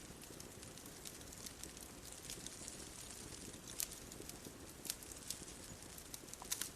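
Bonfire crackling faintly, with scattered sharp pops over a soft steady hiss.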